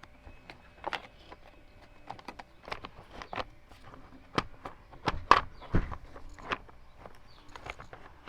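Scattered clicks and knocks from a screwdriver and the plastic covers and screws of a small chainsaw being handled during disassembly. A few heavier knocks come a little past halfway.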